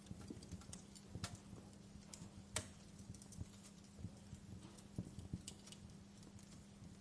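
Wood fire burning in a fireplace, crackling with faint irregular pops and ticks. One sharper snap comes about two and a half seconds in. A steady low hum runs underneath.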